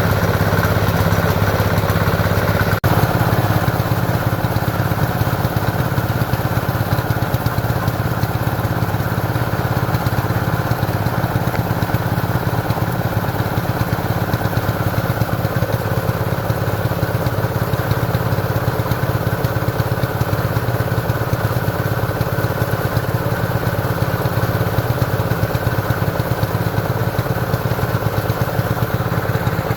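A small engine running steadily at a constant speed, with a momentary break about three seconds in.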